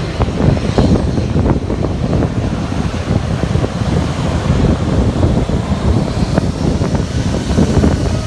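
Strong wind buffeting the microphone: a loud, gusty rumble with no steady tone.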